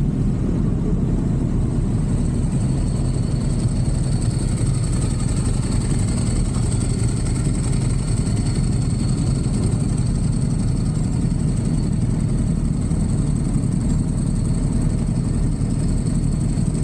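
Motorcycle engine running steadily with a continuous low rumble and a faint high whine.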